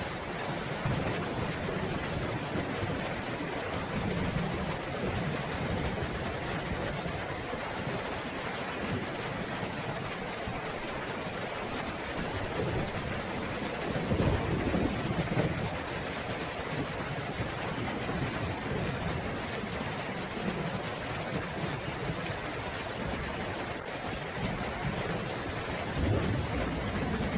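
Steady rain falling, with low rumbles of thunder, the loudest about halfway through and another near the end.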